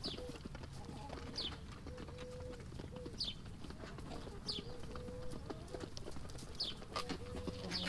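Backyard hens feeding: short, low clucking calls over a steady patter of clicks from pecking. A high, quick falling chirp repeats about every second and a half.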